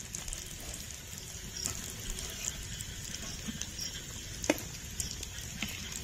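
Chicken cutlets deep-frying in hot oil in a kadai: a steady sizzle with small crackling pops, and one sharper click about four and a half seconds in.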